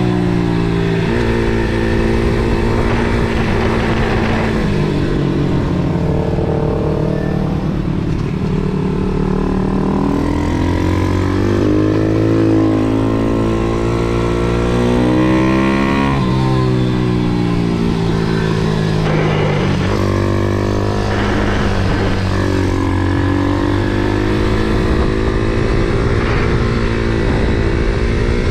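MRF 140 SM pit bike's 140cc single-cylinder four-stroke engine heard on board while lapping a track. The revs climb and fall over and over, with steps in pitch as it shifts gears and drops revs into corners.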